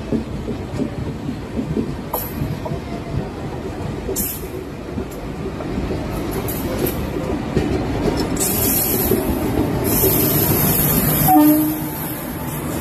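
Indian Railways electric locomotive and express train running close by on the next track. The rumble of wheels on rail grows louder as it approaches, with a few sharp clicks. A rush of hissing noise comes as the locomotive draws alongside in the last few seconds, and a short tone sounds about a second before the end.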